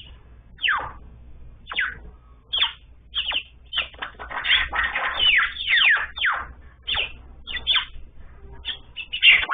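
Songbird calls: short, sharp chirps that each sweep downward in pitch, coming roughly once a second, then crowding into a quick overlapping flurry in the middle.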